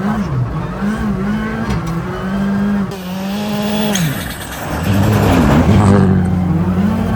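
Ford Fiesta ST rally car's engine running under hard driving on snow, its revs rising and falling. About four seconds in the revs drop sharply, with a loud rushing noise.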